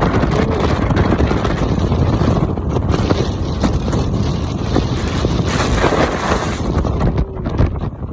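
Strong wind buffeting the microphone aboard a ferry at sea, a rough, unbroken rush of noise that swells and dips with the gusts.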